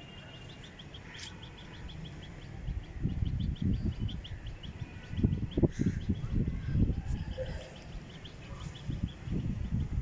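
A small bird chirping in a fast, even run of high ticks, several a second, all through. From about three seconds in, loud low thumps and rumbles come and go, loudest around five to six seconds in.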